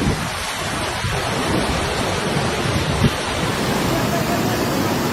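Steady loud rush of storm water, with wind buffeting the microphone. A single short knock sounds about three seconds in.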